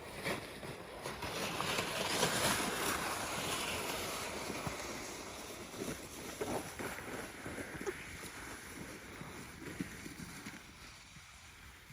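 Sled sliding fast over icy, crusted snow: a rushing, scraping hiss that builds over the first couple of seconds and then slowly fades, with a few scattered crunches and knocks.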